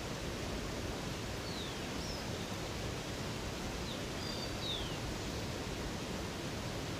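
Steady rush of running water, with a bird giving a few short high chirps, a pair about a second and a half in and a small cluster about four seconds in.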